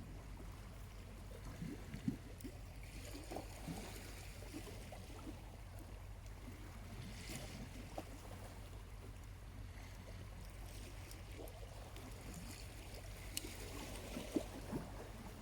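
Small waves washing gently on the shore, swelling and fading every few seconds, with a campfire's burning charcoal crackling softly and giving a few sharp pops.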